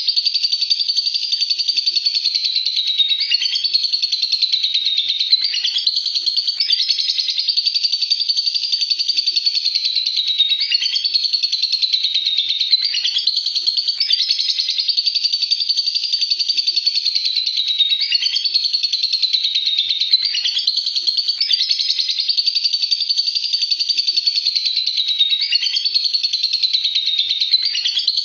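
Lovebird's long, unbroken ngekek: a rapid, high-pitched chattering trill sung without a pause, its pitch dipping briefly every second or two.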